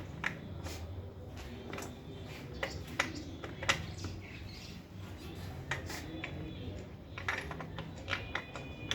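Scattered light metallic clicks and taps of hand tools and bicycle parts being handled during assembly, a few ringing briefly, over a low steady hum.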